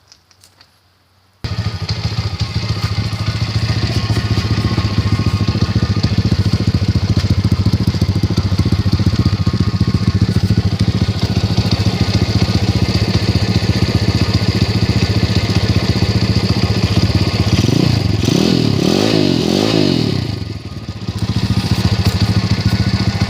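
Dirt bike engine that starts abruptly about a second in and runs steadily. Near the end it revs up and down several times in quick succession, dips briefly, then settles back to a steady run.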